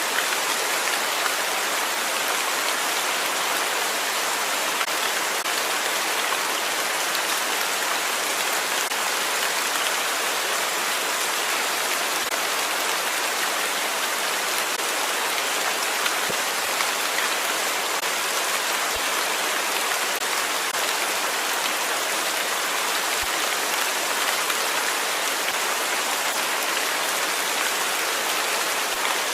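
Steady rain falling on a surface, an even hiss of many drops that keeps the same level throughout.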